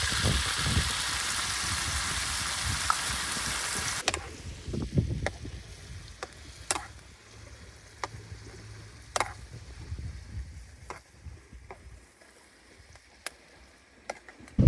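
Food frying in a pan, a steady sizzle that cuts off abruptly about four seconds in. After it come quieter scattered sharp clicks and knocks.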